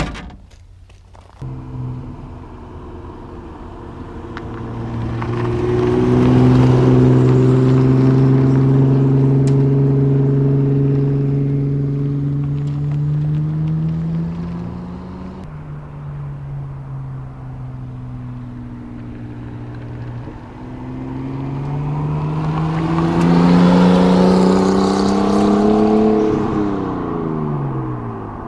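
Triumph TR6 with a Nissan RB25 turbocharged inline-six, driven past under acceleration in two runs joined by a sudden cut about halfway. The engine note swells and climbs steadily in pitch, and near the end it drops sharply as the car goes by.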